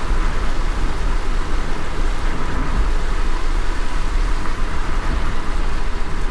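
A car driving in light rain: a steady low rumble of engine and road under an even hiss of rain and wet tyres.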